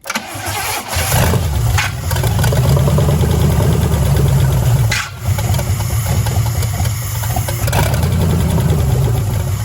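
Junkyard Pontiac 350 V8 cranking and catching within about a second, then running steadily with a brief stumble about five seconds in. It is the engine's first start in about six years after water was drained from it, and the owner says it has some issues, though not bad ones.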